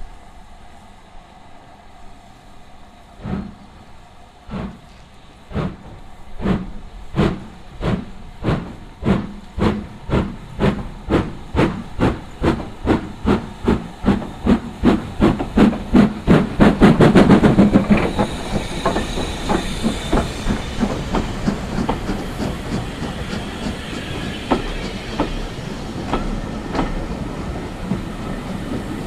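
Steam locomotive pulling a train away, its exhaust chuffs starting more than a second apart and quickening steadily to several a second. The chuffs are loudest about two-thirds of the way through, then give way to the steady rolling noise of the train with fainter beats.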